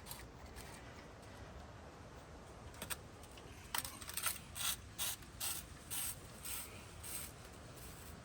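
Ratchet-like mechanical clicking from hand work on the pool pump: a couple of sharp clicks about three seconds in, then a run of about eight strokes at roughly two a second that tails off near the end.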